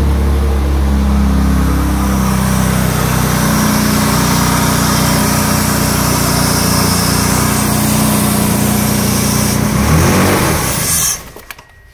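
BMW E36 325i's straight-six engine idling, a steady low running note with a hiss over it, which the owner puts down to a leaking exhaust. About eleven seconds in the engine stalls and cuts out suddenly.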